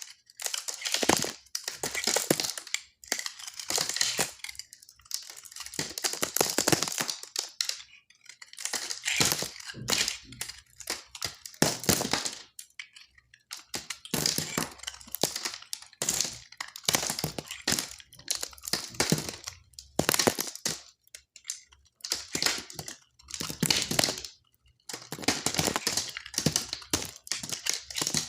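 A knife cutting through dry soap, making crunchy crackling in repeated strokes about every one to two seconds, each stroke a dense run of fine cracks.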